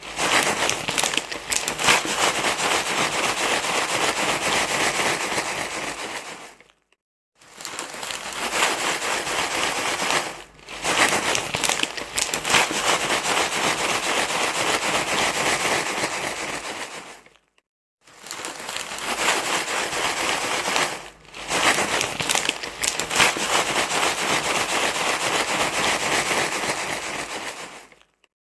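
Loud, continuous crinkling and rustling, dense with small crackles, cutting out briefly twice, about seven and seventeen seconds in.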